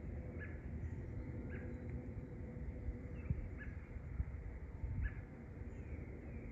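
A small bird repeating a short, falling chirp about once a second, over a steady low rumble.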